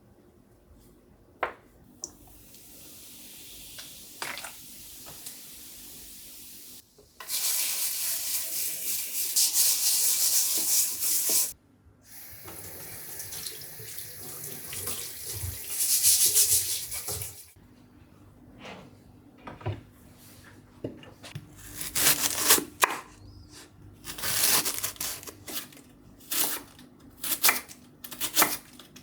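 Kitchen tap running into a sink in three stretches, loudest in the middle one, followed by a run of knocks and clinks.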